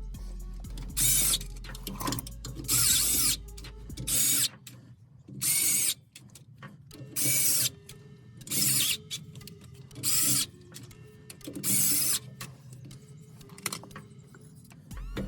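Repeated short bursts of a power tool, each about half a second long, about one every second and a half.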